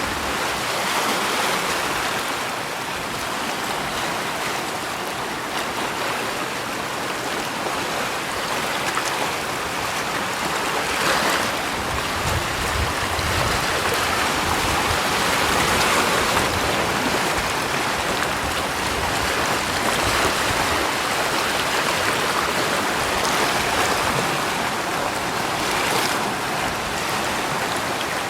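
Continuous rushing water, a steady wash that swells and eases gently every few seconds.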